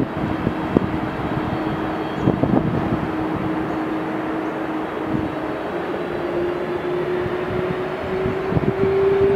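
Jet airliner engines running with a steady rushing roar, over which a single whine climbs slowly in pitch through the whole stretch.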